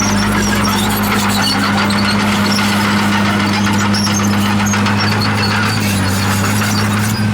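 Diesel engine of a heavy earthmoving machine running at a steady speed with an even, unchanging hum, over scattered faint higher-pitched squeaks and clinks.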